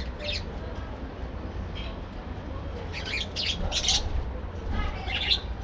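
A colony of budgerigars chirping and squawking in short, scattered high calls, busiest about three to four seconds in, over a steady low hum.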